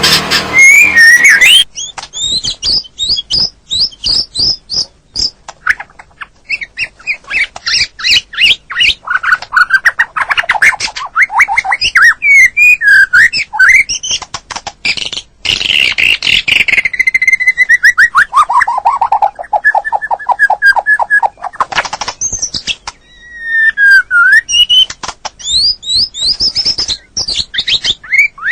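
White-rumped shama singing a long, varied song: fast runs of sharp repeated notes and trills, with a long trill falling in pitch about halfway through.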